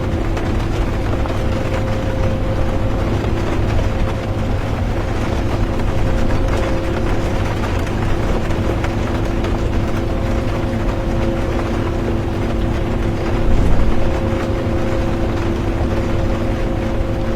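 Interior of a moving bus: a steady low engine and road rumble with a constant hum running through it, under an even hiss of rain.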